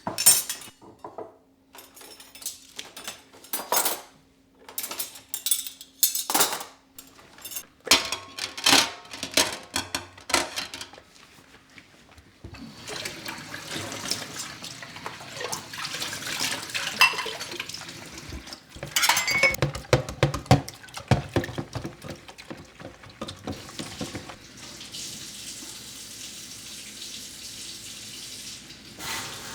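Dishes and cutlery clinking and clattering, then a tap running into a sink about twelve seconds in while dishes knock against each other under the water.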